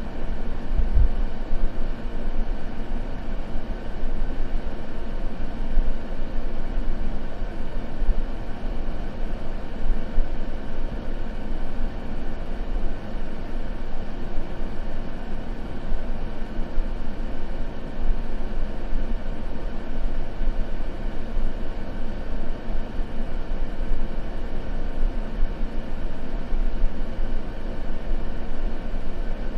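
Steady white noise, a continuous, unvarying hiss weighted toward a deep rumble.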